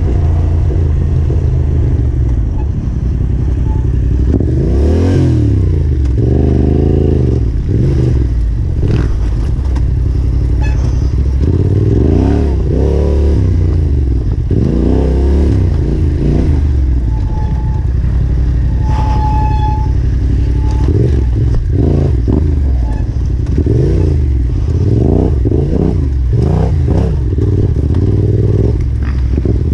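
Yamaha Ténéré 700's parallel-twin engine running under the rider, its revs rising and falling over and over as the throttle is worked on a rough dirt trail, with the bike clattering and knocking over the ground.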